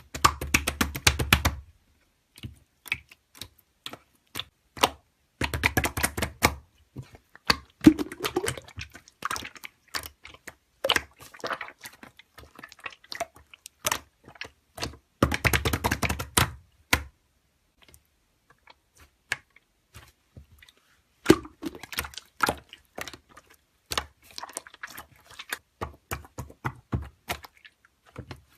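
Slime being squeezed and pressed by hand, giving rapid clusters of sharp clicking and popping sounds with short pauses between handfuls.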